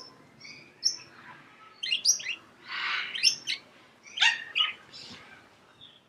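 Birds chirping: short high chirps in several quick clusters, with a brief harsh rasp about three seconds in.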